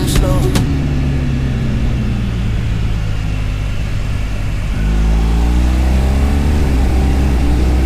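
BMW GS motorcycle engine running steadily under way, then accelerating about five seconds in, its note rising in pitch and getting louder. A few sharp clicks sound right at the start.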